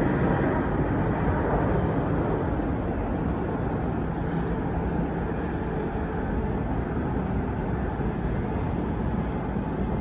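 Steady roar of jet airliner engines, easing off slightly over the first few seconds.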